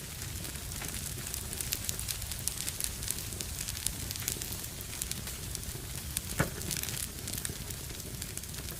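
Fire burning in a fireplace, crackling steadily over a low rumble, with one louder pop about six and a half seconds in.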